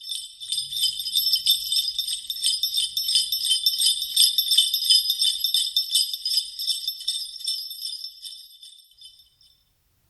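Jingle bells shaken in a continuous fast jingle. The sound swells in at the start and fades out about nine seconds in.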